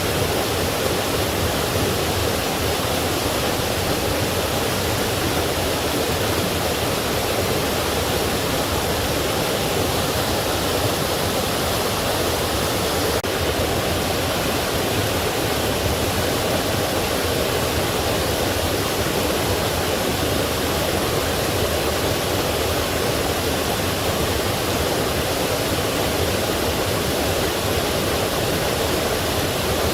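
Forest stream and waterfall flowing, a steady, unbroken rush of water.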